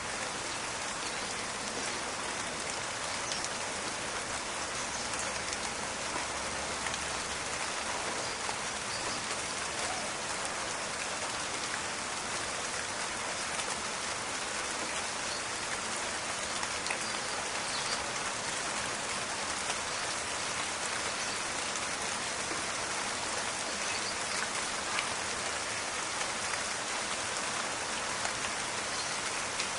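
Steady rain falling on foliage, an even hiss with small scattered pattering drops.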